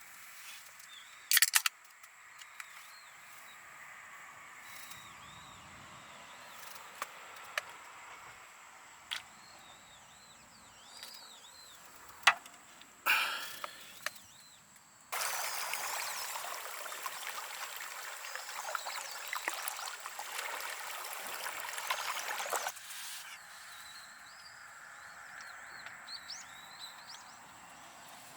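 Outdoor camp ambience with faint bird chirps, a few sharp clicks and knocks of gear being handled, and a steady hiss lasting about seven seconds in the middle that starts and stops suddenly.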